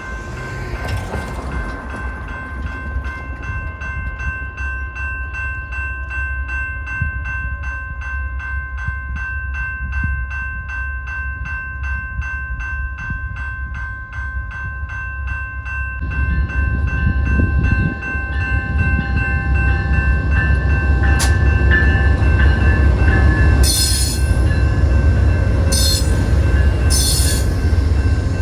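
Grade-crossing warning bell dinging in a fast steady rhythm. About halfway through, the low rumble of an approaching train builds under it, and a few short high-pitched bursts come near the end.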